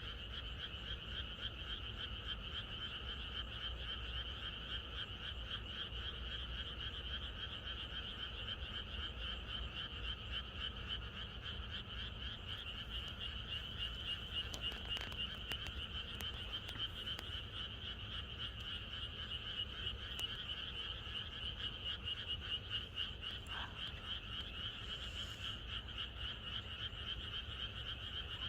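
A dense chorus of many frogs croaking together, a steady, unbroken mass of rapid pulsing calls.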